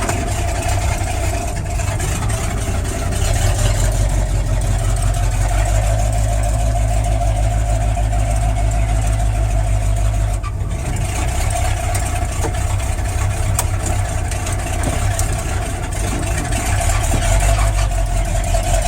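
An old pickup truck's engine running steadily, with a brief dip in its sound about halfway through.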